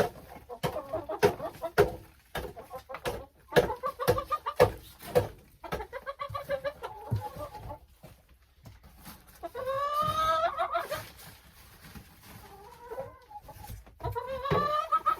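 Hens clucking, with many sharp clicks and knocks through the first half. Two longer calls rise in pitch, about ten seconds in and again near the end.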